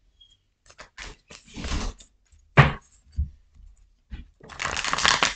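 Tarot cards being handled and shuffled on a table: a series of taps and light knocks, then a longer papery riffle near the end.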